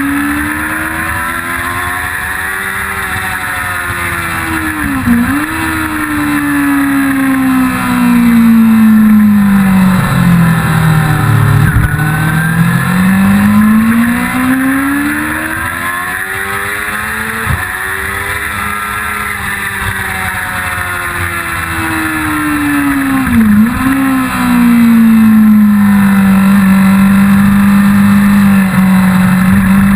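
1999 Yamaha YZF-R6 (5EB) inline-four engine at speed on track, its note rising and falling through corners, with a deep slow drop and climb around the middle. Two brief sharp dips in the note, about 5 s and 23.5 s in, are quick gear changes. Steady rushing wind noise runs under it.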